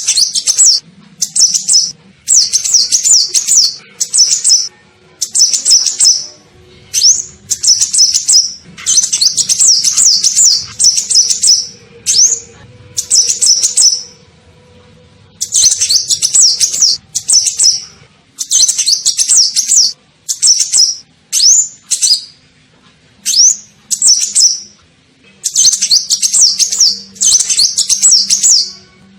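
A sunbird, the 'kolibri ninja', singing: repeated high, rapid twittering phrases, each from half a second to about two seconds long, separated by short pauses, with a few brief single upslurred notes between them.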